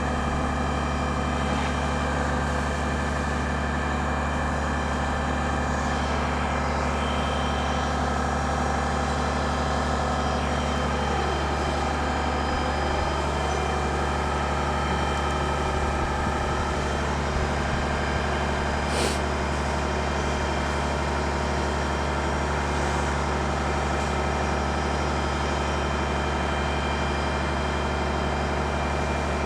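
A heavy engine running steadily at a constant speed, with an unchanging low drone. A single short click about two-thirds of the way through.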